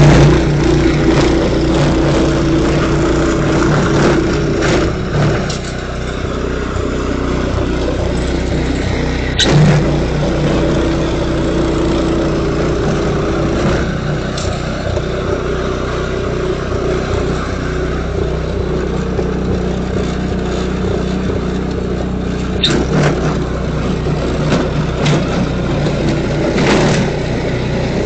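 Engine of a snow-clearing machine running steadily, its pitch shifting a little as the load changes. Two sharp clicks stand out, one about a third of the way in and one near three quarters.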